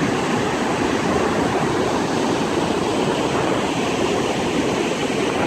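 Floodwater rushing over a dam: a steady, loud rush of water.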